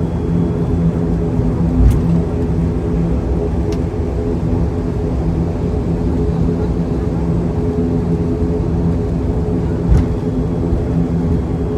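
ATR 72 turboprop engines running at low power, heard from inside the cabin as a steady drone with a few faint clicks.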